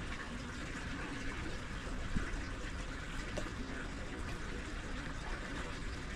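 Steady rain: a continuous wash of falling and running water, with a few faint drips or taps.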